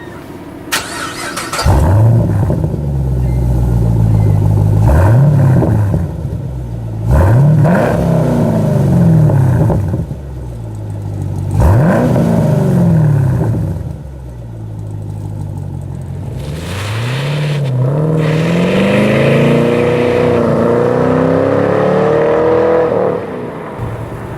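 Camaro SS V8 through a stainless cat-back exhaust with an H-pipe, revved several times: the pitch swells up and falls back in separate blips, then climbs more slowly and holds high near the end as in acceleration, before dropping off just before the end.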